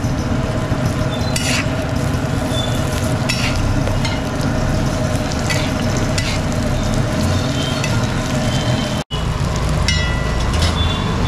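Mutton keema patties sizzling steadily as they shallow-fry in oil on a flat griddle (tawa), with a few short scrapes of a metal spatula against the griddle.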